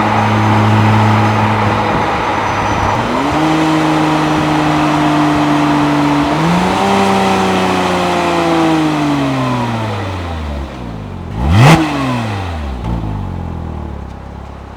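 Porsche Cayman S flat-six engine and stock exhaust. The engine note steps up twice, then falls away steadily as the revs drop. About 12 seconds in, a loud whoosh sweeps past close by, and the sound fades after it.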